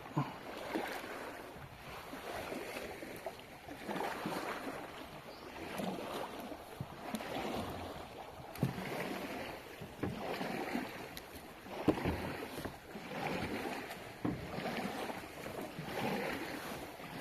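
Kayak paddle strokes splashing and dripping in water, coming in swells roughly every two seconds, with light knocks against the hull.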